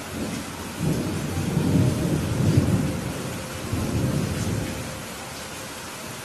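Thunder rumbling over steady rain. The low rumble builds about a second in, peaks near the middle, swells once more a little later and dies away before the end, while the rain keeps hissing evenly throughout.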